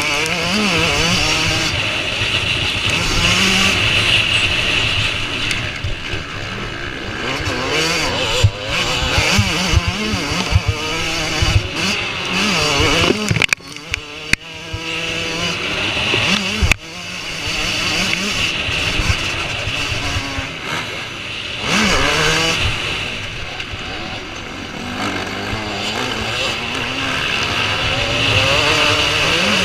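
Motocross bike engines revving hard and changing pitch as they accelerate, shift and back off, over and over. There is a brief dip in the sound about halfway through.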